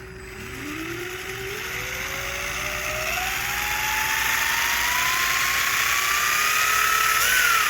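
Electric drive motor and drivetrain of a Losi Promoto-MX 1/4-scale RC dirt bike whining under throttle, the pitch climbing steadily for about seven seconds, then dipping and rising again near the end as the throttle is eased and reapplied. Under it is a steady whine from the bike's spinning gyro flywheel.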